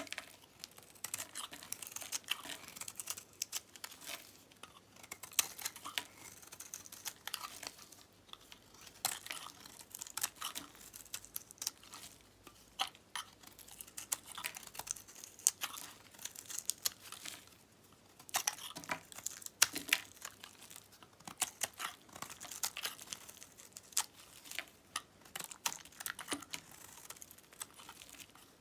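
Blade cutting through dry dyed soap, a dense irregular run of crisp crackling and crunching, with brief pauses between cuts.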